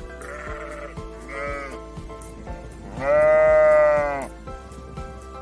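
A sheep bleating: one long loud bleat about three seconds in, after softer bleats near the start, over background music with a steady beat.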